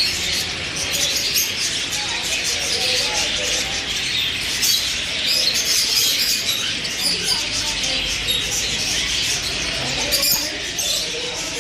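Many caged small birds chirping at once, a dense, steady chatter of overlapping short calls.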